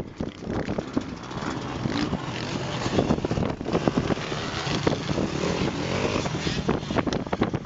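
Motocross dirt-bike engines running, heard as a rough, uneven mechanical noise.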